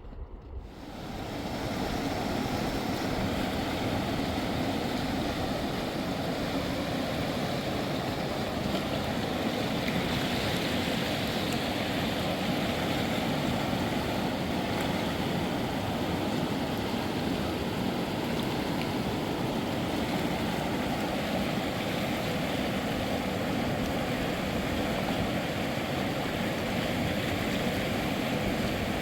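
Steady rushing noise, like running water or strong wind, fading in during the first two seconds and then holding even.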